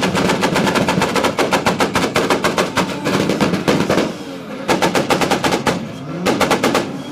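Six-cylinder car engines, among them a Nissan Skyline R34's, revved hard at the same time in a rev competition. The exhaust lets out a rapid, machine-gun-like string of pops and bangs over the gliding engine note, breaking off briefly twice.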